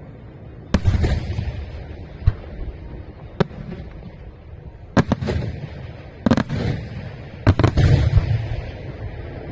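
Fireworks bursting in a display: about ten sharp bangs at uneven intervals, several coming in quick pairs, each followed by a low rolling rumble of echo.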